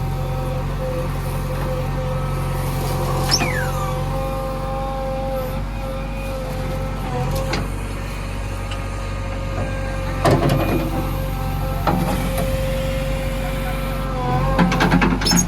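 JCB 3DX backhoe loader running steadily with a constant whine over its engine hum, with a falling whistle about three seconds in. A few short knocks come about ten and twelve seconds in, with a cluster near the end.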